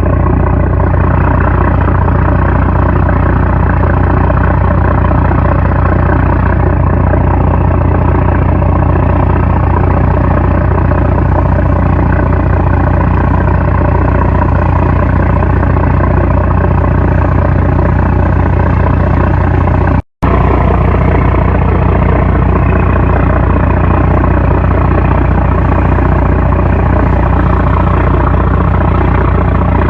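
A 750-horsepower trawler's diesel engine running loudly and steadily at a constant drone. The sound cuts out completely for a split second about twenty seconds in, then carries on unchanged.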